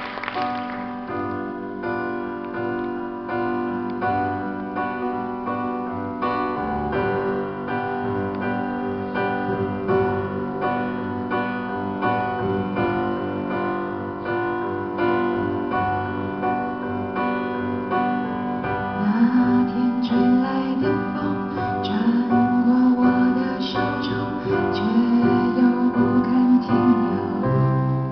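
Live pop ballad opening on piano, playing evenly repeated chords as the song's intro. About 19 seconds in, a lower melody line with sliding notes joins over the piano.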